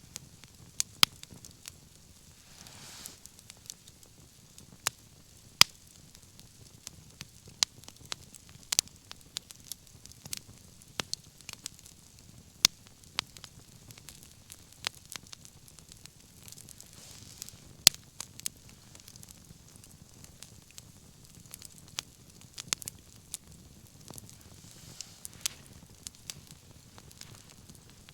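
Wood bonfire crackling: irregular sharp pops and snaps, about one or two a second, over a faint steady hiss, with a short soft hiss about three seconds in.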